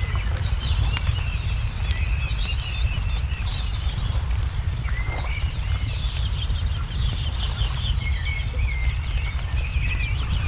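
Wood fire crackling with frequent sharp pops over a steady low rumble, while small birds chirp and twitter throughout.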